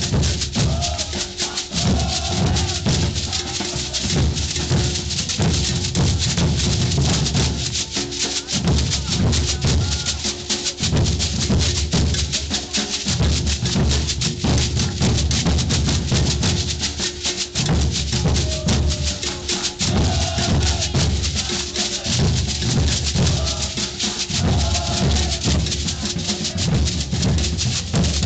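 Maracatu percussion group playing on the move: deep bass drums beating continuously under a steady rattle of shakers, with faint voices now and then.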